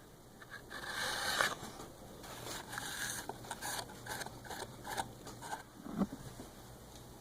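Irregular scraping and rubbing in a series of short strokes, with a knock about six seconds in.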